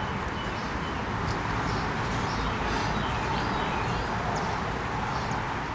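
Steady background hum with faint, scattered bird chirps.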